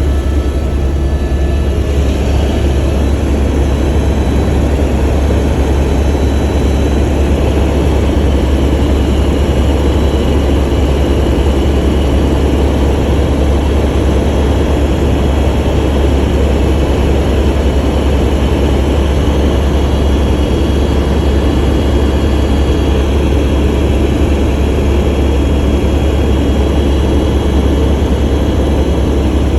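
Helicopter in flight, heard from inside the cabin: a steady, loud drone of engine and rotor with a strong deep throb underneath.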